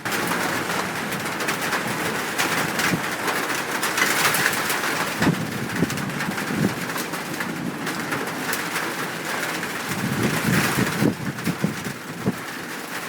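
Doves cooing again and again over a steady hiss of rain.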